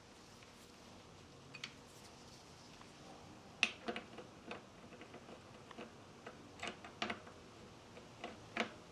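Scattered light clicks and taps of hand tools working on a mountain bike fork's air leg while a suspension cartridge is being fitted, irregular and starting about a second and a half in.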